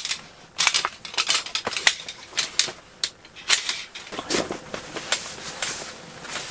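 Irregular clicks, light knocks and rustling of camping gear being handled, as a folding dog cot is set up.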